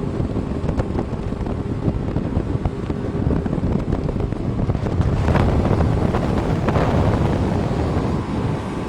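Wind buffeting the microphone over the low, steady drone of a dive boat's engine, swelling louder about five seconds in.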